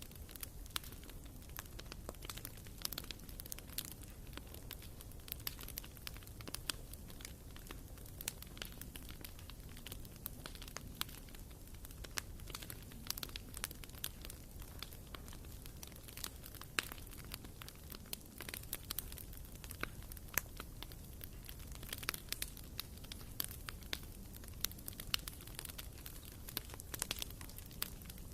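Wood fire burning in a fireplace: logs crackling and popping in quick, irregular snaps over a low steady rumble of the flames.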